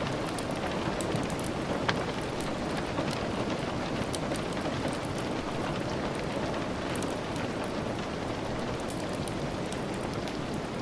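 Steady rain, an even hiss, with a log fire crackling through it in scattered sharp ticks, one louder snap about two seconds in.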